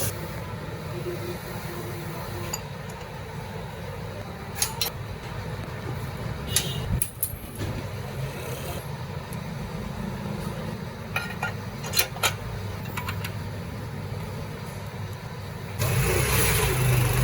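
Honda CD70's single-cylinder four-stroke engine running steadily after a tune-up, with a few sharp clicks over it, getting louder near the end.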